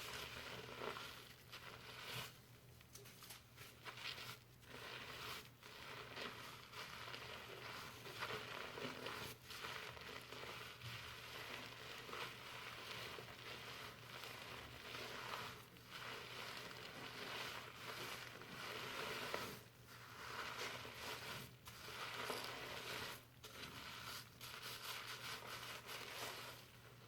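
Fingers scrubbing shampoo lather through hair: a continuous crackly rustling of foam, broken by short pauses every few seconds.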